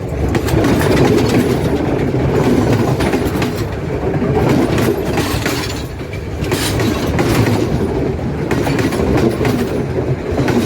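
Train hauled by a Sri Lanka Railways M2-class diesel locomotive running along the track, a steady rumble with the wheels clicking irregularly over rail joints.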